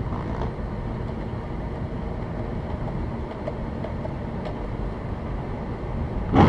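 Car interior road noise at highway speed: a steady low rumble of engine and tyres, with a sudden louder rush of noise right at the end.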